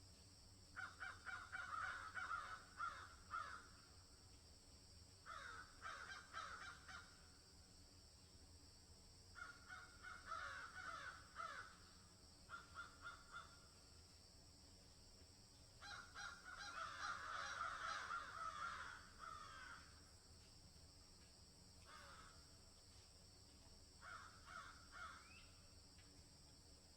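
A bird calling in several bouts of rapid repeated notes with pauses between them, over a steady high-pitched drone throughout.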